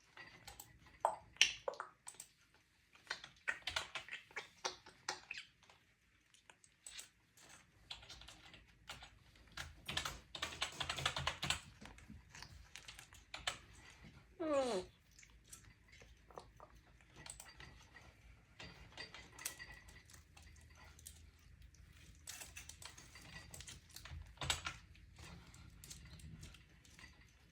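Typing on a computer keyboard: irregular runs of key clicks. About fourteen seconds in, a short whistle glides sharply downward.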